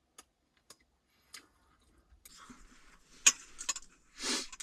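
Eating at a small table: three light clicks, then rustling with a sharp clack about three seconds in, a smaller one just after, and a short burst of noise near the end, like utensils and a bowl being handled during a meal.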